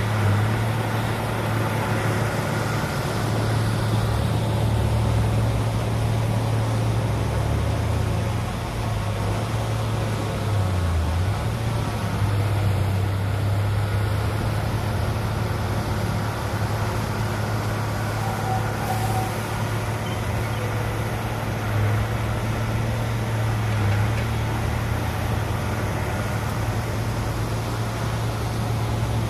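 Heavy diesel engine of earthmoving machinery running steadily, with a strong low hum and small shifts in pitch now and then as the load changes.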